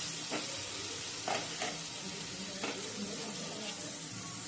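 Tomato-and-spice masala sizzling in a nonstick kadai as a silicone spatula stirs it, with about five short scrapes of the spatula through the paste. The masala is being fried down in oil.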